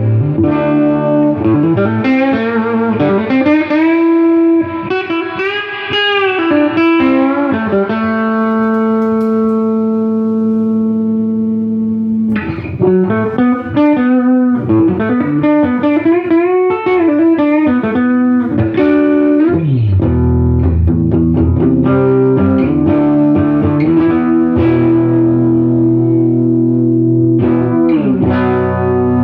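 Electric guitar played through a 1968 Fender Super Reverb tube amp with its reverb on: a lead phrase of bent single notes, a chord held for several seconds about eight seconds in, more bent-note licks, a slide down about twenty seconds in, then ringing chords.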